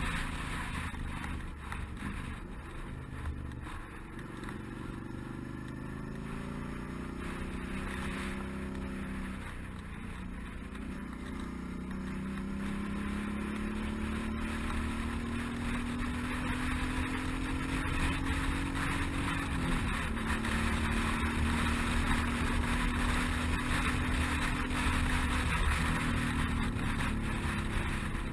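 Suzuki V-Strom 650 V-twin motorcycle engine under way, its note climbing with the revs and dropping at each gear change, three times, over a steady rush of wind noise.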